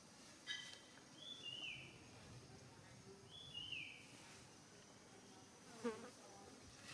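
Faint high call of a small animal, repeated twice about two and a half seconds apart; each is a short note followed by a lower note that slurs downward.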